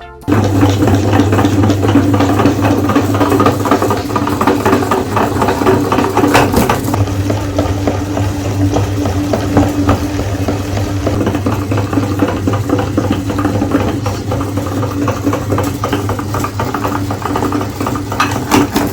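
Electric meat grinder running steadily with a low motor hum, with dense crackling and rattling as chocolate bars are ground through it.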